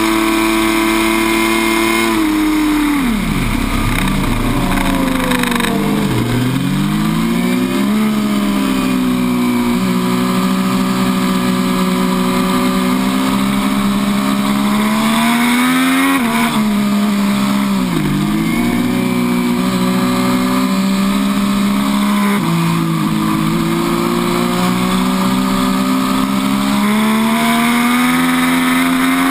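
MV Agusta F3 800's three-cylinder engine heard on board at full speed, then dropping sharply in pitch about two seconds in under hard braking, with quick rises in revs at each downshift. It then pulls out of the corners, the pitch climbing and falling back at each gear change and climbing again near the end, over steady wind rush.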